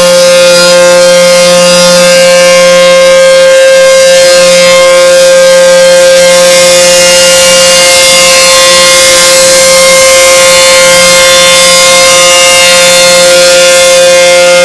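ACA Hurricane siren sounding loud and steady, holding one pitch with no rise or fall.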